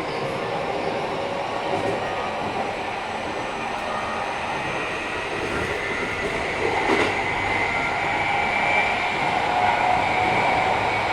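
Keikyu 1000 series EMU under way, its Mitsubishi IGBT VVVF inverter and traction motors giving a steady whine over the running rumble. The whine drifts slightly upward in pitch as the train gathers speed. This unit is a little noisier than others of the class.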